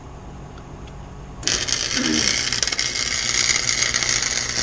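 Chicago Electric welder's arc crackling and sizzling steadily as a tack weld is laid on a steel exhaust side pipe, starting about a second and a half in.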